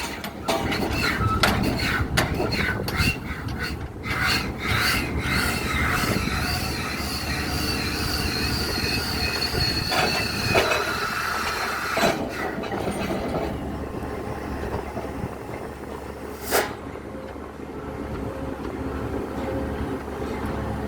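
Pile-driving rig machinery: irregular metallic clanks, then a sustained high squeal of metal rubbing on metal lasting several seconds, over a steady low diesel engine rumble, with one more clank near the end.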